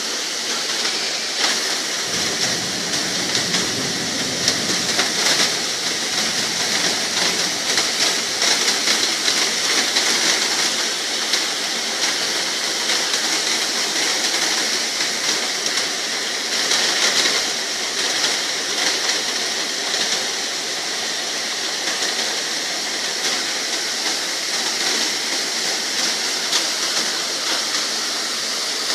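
Heavy rain pouring steadily, a dense hiss of falling drops with fine patter, briefly a little louder a couple of times.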